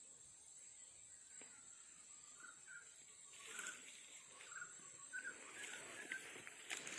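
A bird calling a run of short notes on one pitch, about two a second, with soft rustling behind it.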